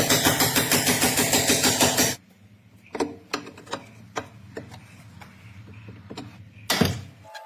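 Impact tool hammering rapidly for about two seconds, then stopping abruptly, followed by scattered metallic clicks and knocks of tools on the car's suspension parts during a coil spring replacement.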